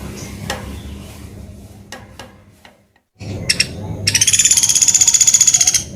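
Pelatuk beras woodpecker calling: a few short sharp notes, then a loud, rapid rattling trill lasting about two seconds.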